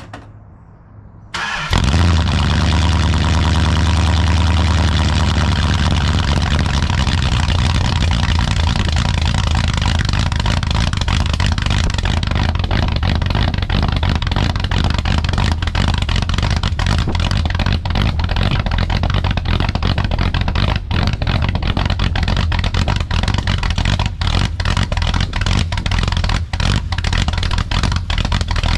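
1966 Chrysler 300's 383 big-block V8 on a cold start: a short crank, then it catches about two seconds in and runs at a steady idle.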